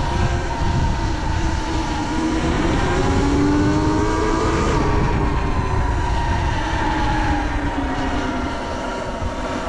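Sur Ron electric dirt bike being ridden: its motor whine glides slowly up in pitch and then back down with speed, over heavy wind rumble on the microphone.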